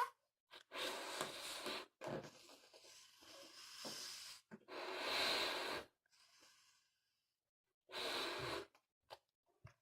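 A latex balloon being blown up by mouth: three long, forceful breaths blown into it, with quieter breathing between them.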